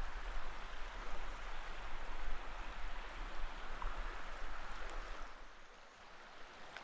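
Steady rushing of flowing river water, which fades somewhat about five seconds in.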